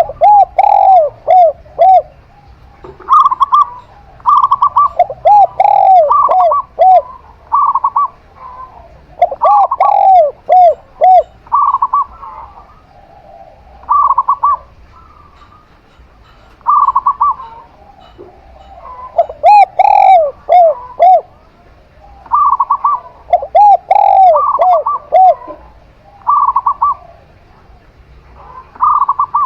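Zebra dove and spotted dove cooing in turn: runs of four or five quick arching coos alternate with shorter, slightly higher repeated notes, a phrase every second or two.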